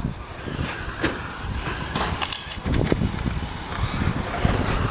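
Radio-controlled short-course trucks running on a dirt track: a steady noisy rumble with scattered knocks and clatter.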